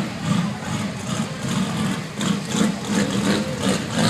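A car engine idling, pulsing unevenly.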